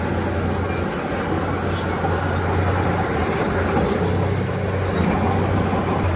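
Diesel engine of a Komatsu D31P crawler bulldozer running steadily under load, a constant low drone with mechanical clatter over it.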